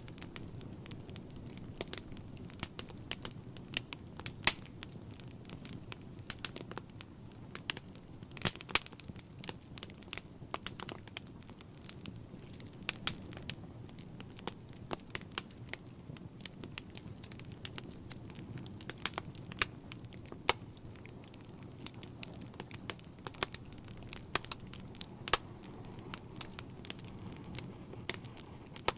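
Wood fire crackling in a fireplace: irregular sharp pops and snaps over a low, steady rush of the flames.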